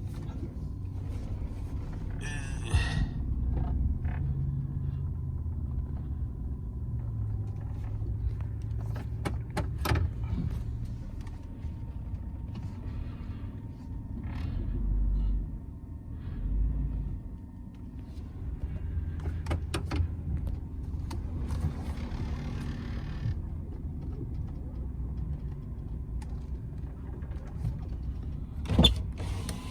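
Work truck's engine running at low speed, heard from inside the cab as a steady low rumble, with a few sharp clicks and knocks along the way.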